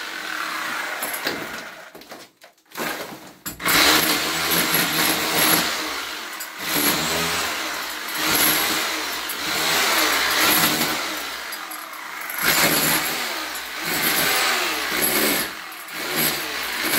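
A motor speeding up and slowing down over and over, stopping briefly about two seconds in.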